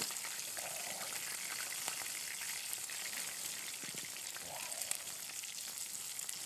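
Steak sizzling in a frying pan over a campfire: a steady frying hiss with small crackles.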